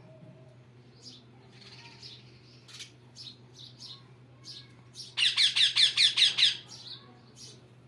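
Parrots chirping with short scattered calls, then a loud, fast run of about ten sharp squawks a little past halfway that lasts over a second.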